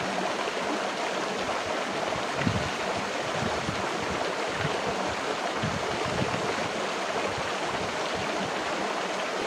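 Steady rush of flowing river water over rocks, an even hiss with no break.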